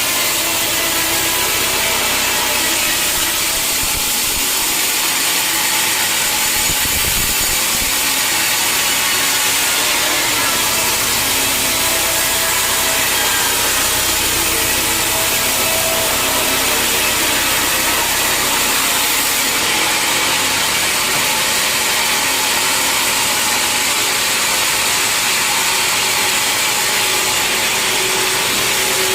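Sawmill saw cutting through a log, a loud, steady sawing noise that does not let up.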